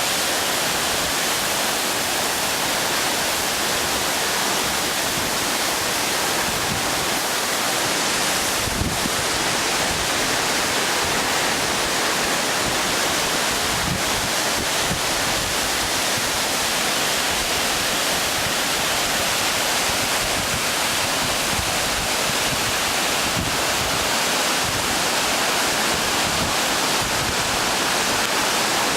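Large waterfall, the Chegem falls, pouring down: a steady, dense rush of falling water that does not let up.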